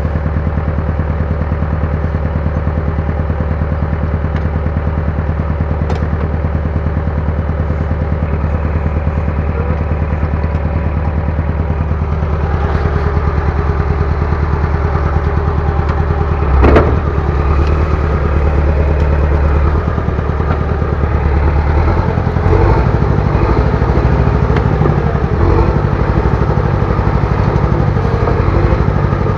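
Bulldozer's diesel engine running steadily, getting louder and rougher a little before halfway as it works, with one sharp metal clank about two-thirds of the way through.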